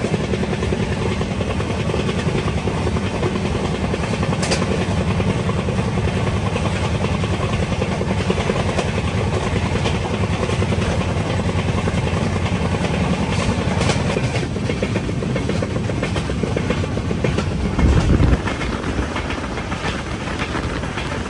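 Devagiri Express passenger train running at speed, heard from an open coach doorway: a steady rumble of wheels on rails with fast clatter. There is a brief louder burst about 18 seconds in, and then the noise is slightly quieter as the train crosses a river bridge.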